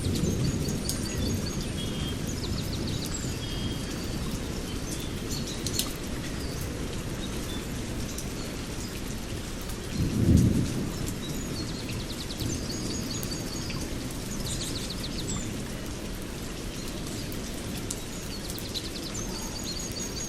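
Rain with low rumbling thunder, a louder roll of thunder about halfway through. Birds chirp and trill repeatedly over it.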